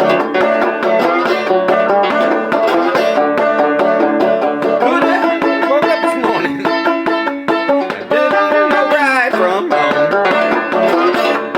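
Six-string banjo-guitar played clawhammer style with a slide: a driving blues riff of plucked and strummed notes, with sliding pitch bends and the banjo head's percussive snap.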